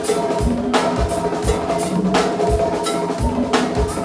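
Live go-go band music: a drum kit plays a steady groove, with regular kick-drum beats and snare and cymbal hits, over sustained keyboard and bass tones.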